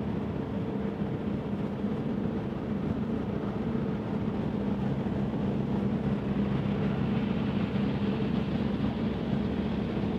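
Volkswagen MK7 GTI's turbocharged 2.0-litre four-cylinder running at a steady cruise through an AWE Tuning Track Edition exhaust with the stock downpipe: an even exhaust drone that holds one pitch.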